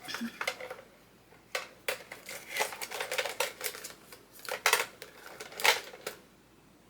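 Paper bills and cash envelopes being handled: an irregular run of rustles, crinkles and light clicks, busiest in the middle and stopping about a second before the end.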